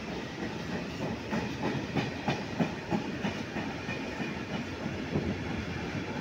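Freight train of tank wagons rolling past, a steady rumble with the steel wheels clacking irregularly over the rails, most densely in the first half.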